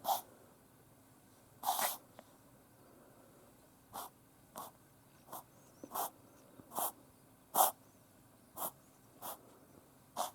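A Yorkshire terrier reverse sneezing: a string of about eleven short, sharp noisy breaths pulled in through the nose. The first two are spaced well apart, then they come roughly every two-thirds of a second.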